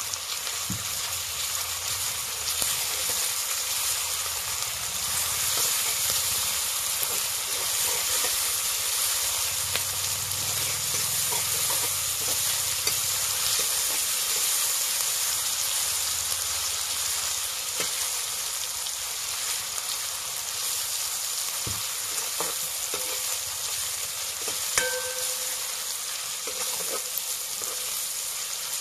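Sliced onions and green chillies sizzling in hot oil in a metal wok, stirred with a metal ladle that scrapes and clicks against the pan. There is one short ringing clink near the end.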